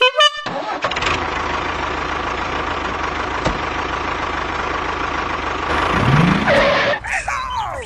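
A vehicle engine runs steadily and revs up about six seconds in.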